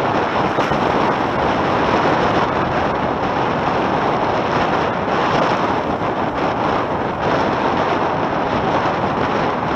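Steady, loud rush of wind buffeting the microphone, mixed with water hissing past the hulls of a Tornado catamaran sailing fast.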